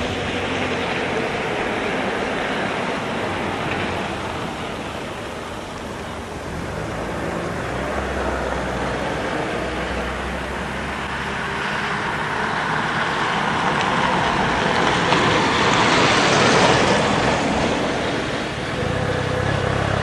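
Old JNR Class 73 electric train running, a steady rumble of wheels and motors that swells to its loudest about three-quarters of the way through and then eases.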